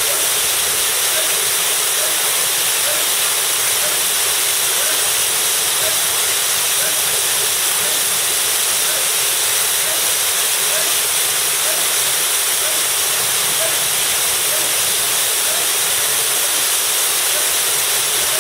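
Waterfall pouring, a steady, unbroken rushing hiss of falling water.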